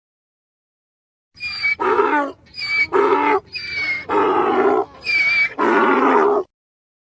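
An animal's loud call in about five repeated two-part cycles, each a short high note followed by a longer, lower, rasping note, starting about a second and a half in and stopping abruptly near the end.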